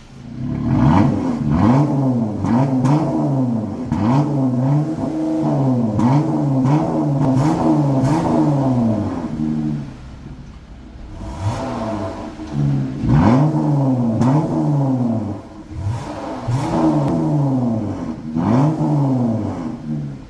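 Jeep Gladiator's 3.6-litre V6 revved through an aftermarket variable exhaust valve and muffler tips. It is blipped in quick succession for about ten seconds, drops back briefly, then is revved a few more times with short pauses between.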